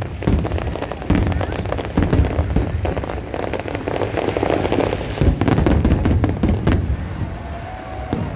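Aerial firework shells bursting overhead: a dense, continuous run of bangs and crackles in quick succession.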